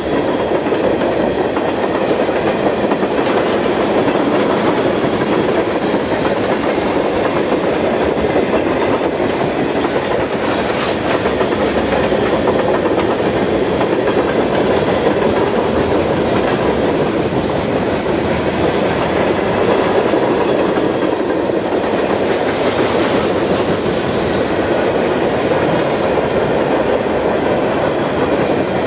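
Freight train cars rolling steadily past, wheels clattering on the rails.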